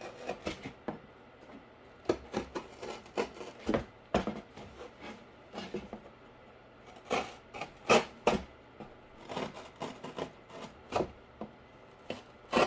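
A utility knife cutting and scraping through cardboard in short, irregular strokes, with the cardboard being handled and rubbed between cuts.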